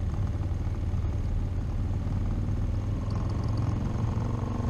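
Motorcycle engine running at low speed with wind noise, heard as a steady low rumble from the ride; a faint higher engine note comes in about three seconds in.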